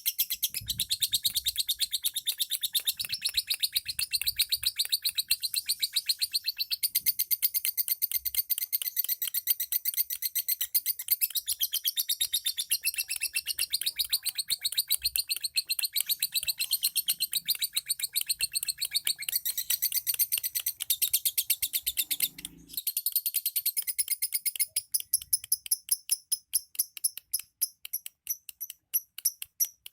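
Pet lovebirds chattering in a rapid, unbroken stream of shrill high chirps. About 25 seconds in, the chirping turns into more evenly spaced, separate repeated notes.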